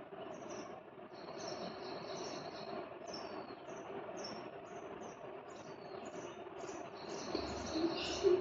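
Sparrows chirping: short, high chirps repeated about twice a second, over a steady low background hum.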